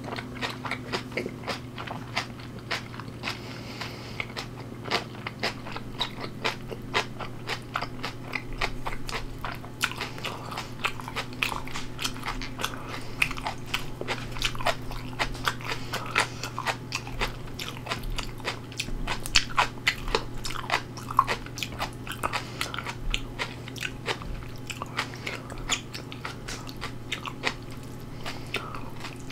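Close-miked chewing of crunchy food, fermented skate (hongeo) eaten with cabbage kimchi: irregular crisp crunches, several a second, over a faint steady low hum.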